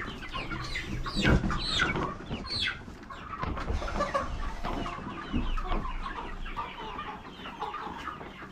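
A flock of chickens clucking and calling as they feed, many short overlapping calls that are busiest in the first few seconds, with a single thump just over a second in.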